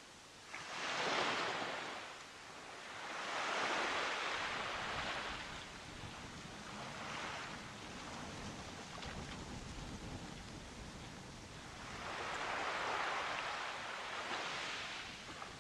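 Ocean surf: waves breaking and washing in, in slow surges every few seconds with a steady wash between them.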